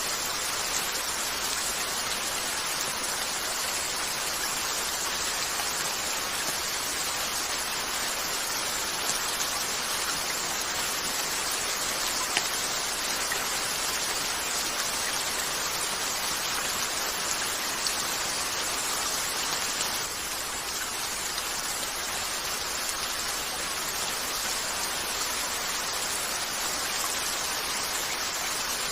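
Steady rain falling on a window, an even hiss with a few brief sharp ticks.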